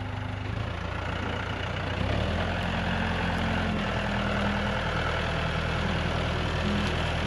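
A vehicle engine idling, then revving up about two seconds in and holding a steady higher speed as it pulls away.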